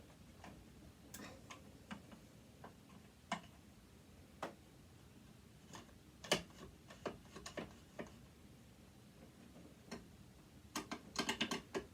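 Faint, scattered clicks and taps of small tools against metal sewing machine parts during disassembly, the loudest a little past halfway, then a quick run of clicks near the end.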